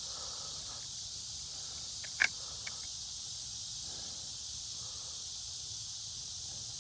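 Steady, high-pitched chorus of insects, with one sharp click a little over two seconds in.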